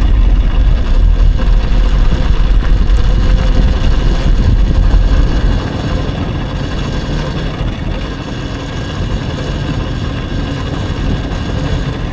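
Wind buffeting the microphone and tyre rumble from a moving electric dirt bike, with a faint steady motor whine. The heavy low rumble drops off about halfway through.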